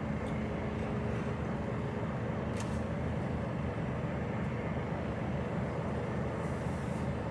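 Inside a lorry's cab: the HGV's diesel engine and road noise making a steady, even drone while driving, with one faint click about two and a half seconds in.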